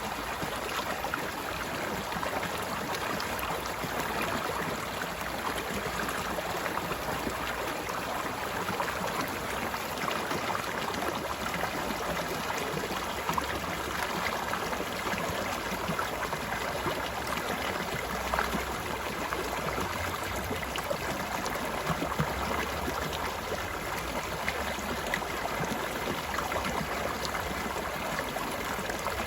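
Stream water flowing and babbling in a steady, even rush, with small splashes scattered through it.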